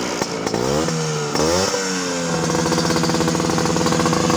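Vespa scooter engine running through an aftermarket exhaust with an aluminium silencer and stainless tip: two quick throttle blips in the first two seconds, then held at a steady, raised engine speed.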